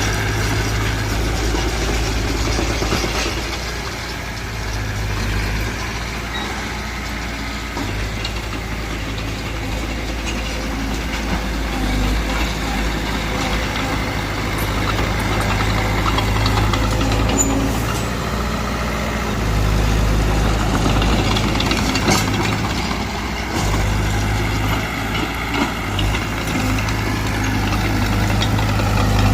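Heavy diesel engine of earthmoving machinery running steadily. Its deep drone swells and eases several times.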